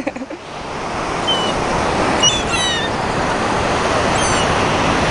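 Ocean surf washing steadily on the shore as the tide comes in, with a few faint, short, high bird calls over it, a cluster of them in the middle.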